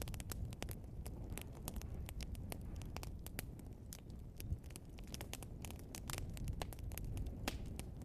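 Burning log crackling and popping: many sharp, irregular pops over a steady low rumble.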